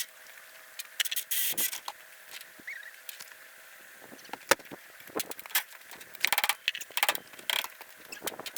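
Irregular metal knocks, clinks and short rattling bursts of hand tools working on golf cart front-end parts during disassembly, over a faint steady hum.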